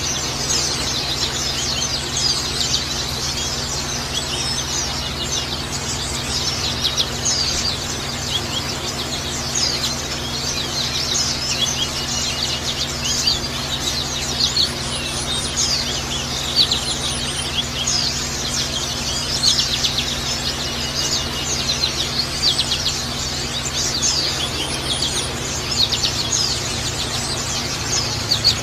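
Pelci songbirds chirping and singing in a dense, continuous stream of quick high chirps over a steady trickling-water background and a low hum. It is a water-and-birdsong 'therapy' recording meant to calm a bird and prompt it to sing.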